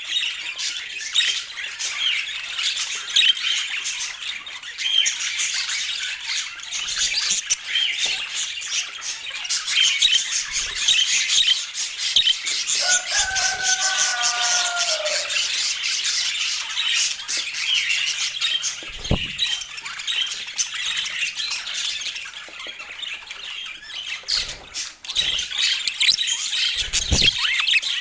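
Budgerigars chattering, a dense run of rapid chirps and squawks throughout, with one lower call falling in pitch about halfway through. A few low thumps come in the second half.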